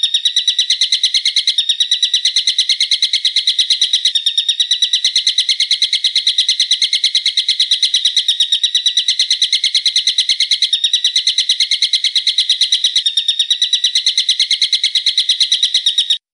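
A bird's rapid, sharp trill of many short notes a second, held without a pause and repeated through small seams as a looped recording, then cut off suddenly near the end.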